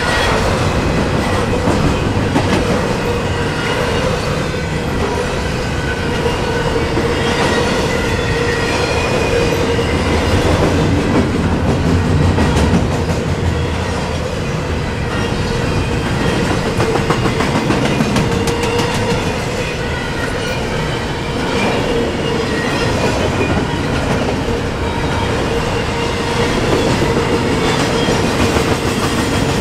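Double-stack intermodal container cars of a freight train rolling past: a loud, steady rumble of steel wheels on rail with a steady tone running under it. A dense run of rapid wheel clicks comes a little past the middle.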